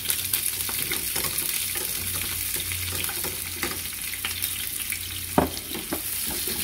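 Green onion and a serrano chili sizzling in hot oil in a frying pan, a steady hiss, with light clicks and scrapes of the spoon against the pan and one sharper knock about five seconds in.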